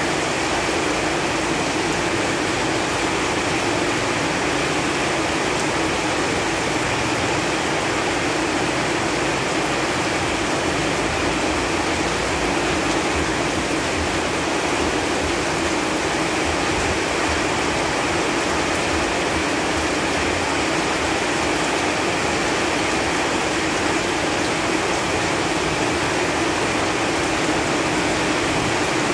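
Rain falling steadily on leaves, an even, unbroken hiss.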